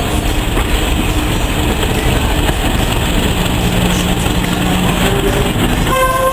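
Train running on a heritage railway: a steady loud rumble and rattle of the wheels and carriages. A brief higher-pitched tone sounds just before the end.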